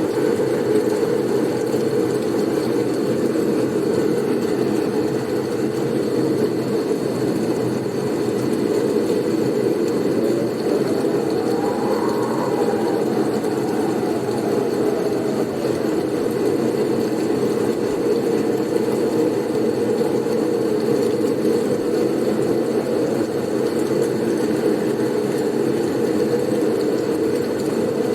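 Blizzard wind blowing in a steady, low rush. A faint whistle rises and falls about halfway through.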